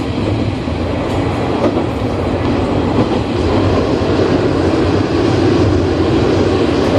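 Diesel railcar running along the track, heard from inside the front of the car: a steady rumble of engine and wheels on rail that grows slightly louder.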